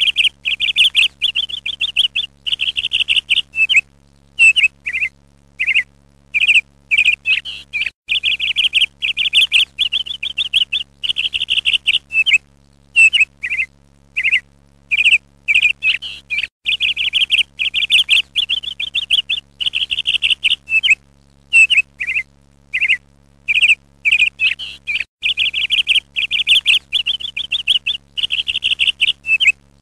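A small songbird chirping and singing in quick, high trilling phrases, one after another with short pauses, some notes gliding downward. A faint steady low hum runs underneath.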